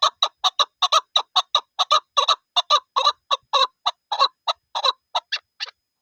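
Chukar partridge (chakor) calling: a fast, even run of short clucking chuk notes, about four a second, that breaks off suddenly near the end.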